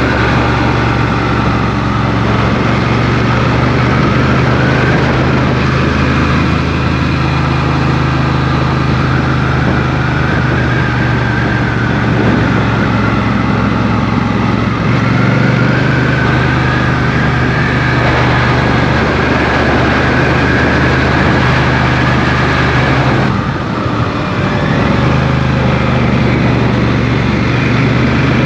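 Motorcycle engine running steadily while riding, with wind rush. The engine note briefly drops about three-quarters of the way through.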